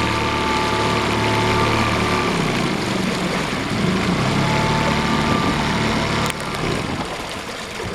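Small boat engine running steadily at idle, its pitch shifting a little about two seconds in; a sharp click about six seconds in, after which it runs quieter.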